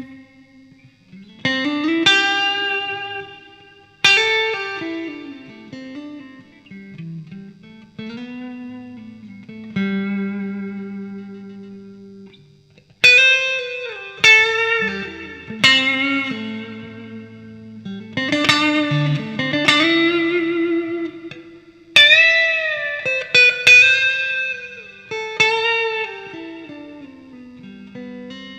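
Electric guitar, a 1995 Fender Strat Plus run through a Fractal Audio FX8 Mk2 effects unit, playing phrases of picked notes and chords that ring out and fade, with string bends that glide the pitch up and down. A louder passage starts about halfway through.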